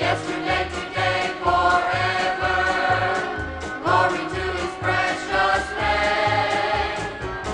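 Gospel choir singing in harmony over a bass line that moves in short notes about two a second, a steady beat.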